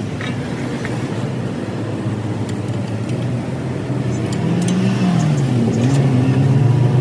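A motor vehicle engine running, its pitch dipping and rising about four to six seconds in, with a few faint clicks.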